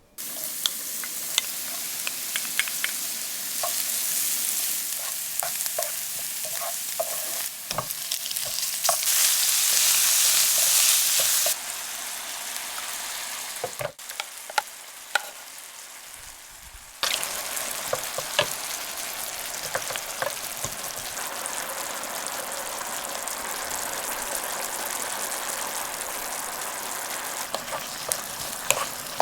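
Food frying in oil in a pan, a steady sizzle with scattered clicks and scrapes of a utensil stirring it. The sizzle jumps in loudness between several short sections and is loudest for a few seconds about nine seconds in.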